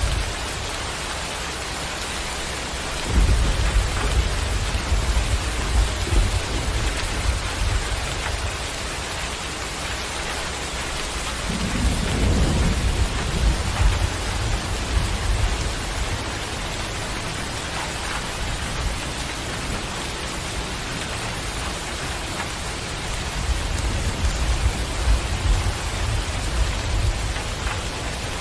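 Steady rain falling, with low rolling rumbles of thunder coming in three spells: about three seconds in, around twelve seconds, and again near the end.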